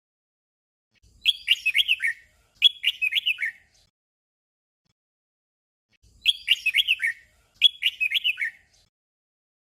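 Red-whiskered bulbul song: a short, quick phrase of chirps sung twice in a row, a pause, then the same doubled phrase again. This is the 'double' (เบิ้ล) song style used for bulbuls.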